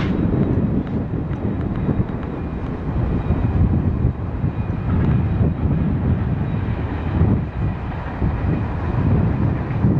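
Passenger train running at speed: a steady rumble of the train on the track, with wind gusting on the microphone.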